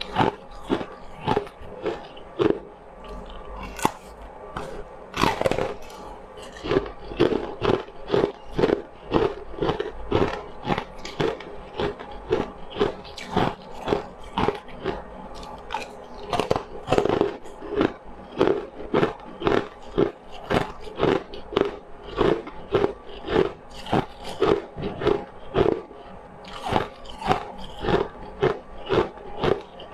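A person crunching and chewing a crunchy food in steady bites, about two to three crunches a second.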